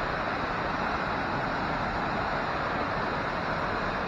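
Waterfall: falling water making a steady, even hiss that does not change in level.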